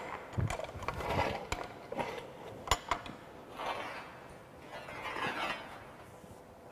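Handling noises from a galvanized steel pipe: irregular metallic knocks, with the sharpest about two-thirds of a second before the middle, and short scrapes of metal being moved.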